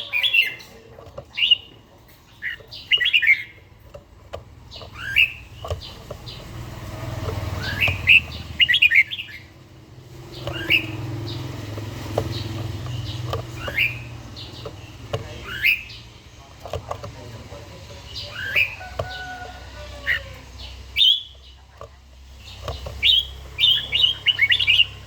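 Red-whiskered bulbul singing short, quick, warbling phrases every one to three seconds, over a low steady rumble.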